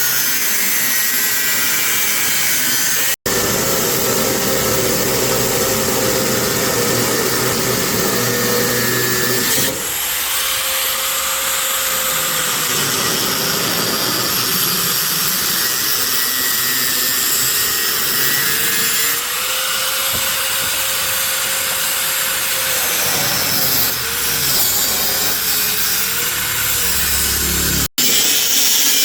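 Handheld power tool running continuously, its whine dipping and recovering in pitch now and then. The sound breaks off for an instant twice, about three seconds in and near the end.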